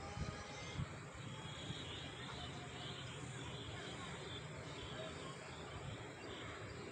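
Outdoor ambience of birds chirping, short calls scattered throughout, over a steady background of insects.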